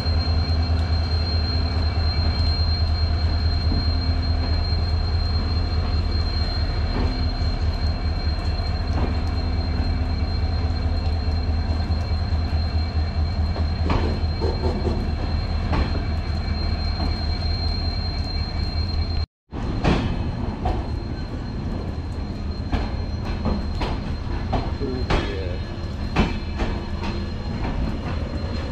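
Indian Railways train of LHB passenger coaches rolling past on the track. A steady low hum and a thin high whine run until about two-thirds of the way in. After a brief dropout, the sound turns to irregular wheel clacks and knocks.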